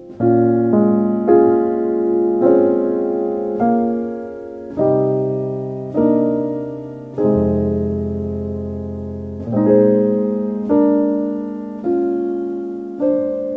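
Soft, slow piano music: chords and single notes struck roughly once a second, each ringing and fading before the next.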